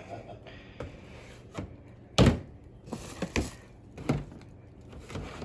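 Several thumps and knocks of household products being handled and set down, the loudest about two seconds in.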